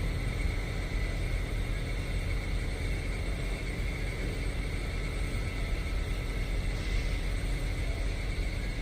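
Steady machinery drone: a low rumble with a constant high-pitched whine and fainter steady hums, unchanging throughout.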